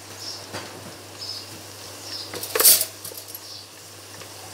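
Sliced onions, green chillies and curry leaves sizzling in hot oil in an aluminium pressure-cooker pot, stirred with a wooden spatula. There is a louder scrape of the spatula against the pot about two and a half seconds in.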